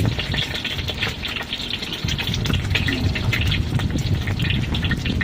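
Hot oil sizzling and crackling in a wok over a low steady rush, as crispy pork is reheated in it. The low rush drops away about a second in and comes back a second later.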